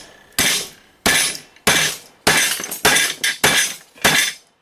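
Hammer blows on the back of a steel machete, driving its blade through metal: seven sharp, ringing metallic strikes at a steady pace of nearly two a second.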